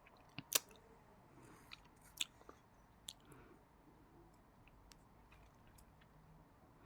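Close-up chewing of crunchy clay, with a few sharp crunches in the first three seconds, then quieter, softer chewing.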